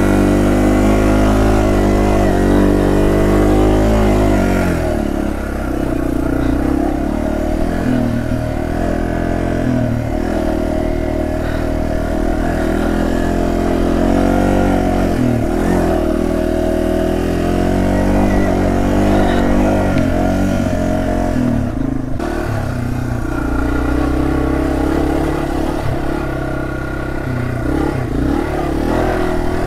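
Yamaha TW200's air-cooled single-cylinder four-stroke engine running under load, its revs rising and falling repeatedly as the throttle is worked.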